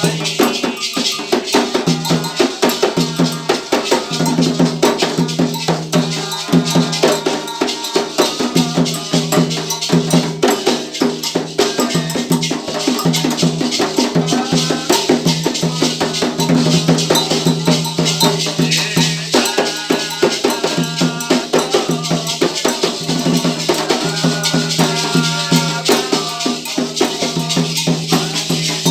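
Candomblé ritual music: percussion with rattles shaking in a fast, steady rhythm, and voices singing over it.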